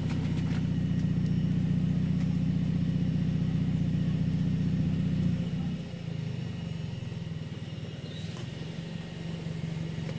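Toyota Vios Limo engine idling, heard from inside the car's cabin: a steady low hum. A little over halfway through, the idle drops and becomes quieter.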